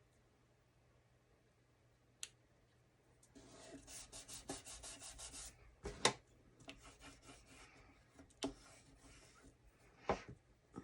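Card stock being rubbed and pressed down by hand to stick a card layer in place: a run of quick, dry papery rubbing strokes that starts about three seconds in, with a click just before it and a couple of sharper taps.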